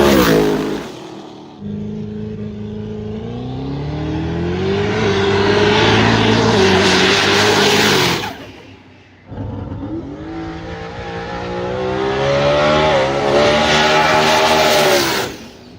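Drag racing car engine at full throttle accelerating down the strip, its pitch climbing through the gears. Two separate runs are heard, each starting and cutting off abruptly.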